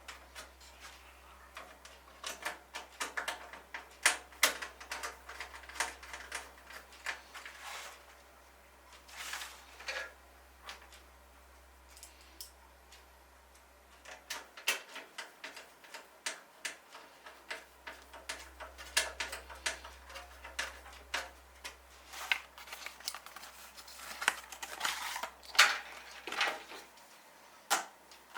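Irregular small clicks and knocks of computer parts being handled and fitted during a PC build, coming in clusters, with a quieter pause about halfway through.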